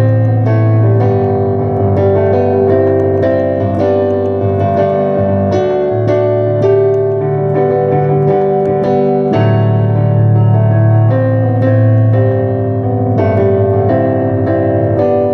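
Piano playing an instrumental passage of held chords under a melody line, with no singing.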